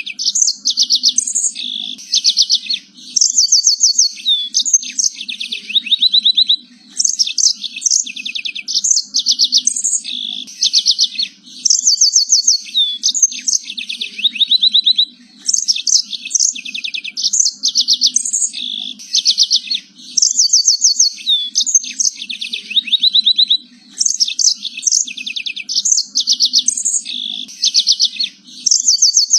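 Domestic canary singing continuously: long phrases of fast, high trills and chirps, broken by short pauses every few seconds.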